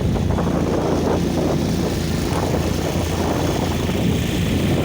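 Motorboat engine running at a steady speed, a constant low hum.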